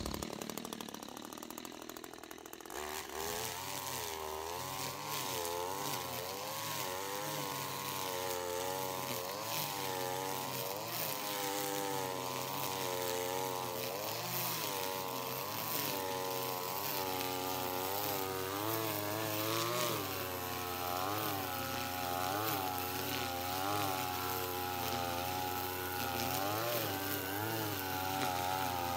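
Echo 210 string trimmer's small two-stroke engine running under throttle, its pitch rising and falling continuously as it cuts. It comes up to speed about two and a half seconds in.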